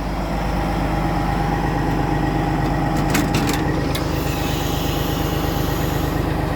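A heavy truck's diesel engine idling steadily. There are a few sharp clicks about three seconds in, and a high hiss joins about four seconds in.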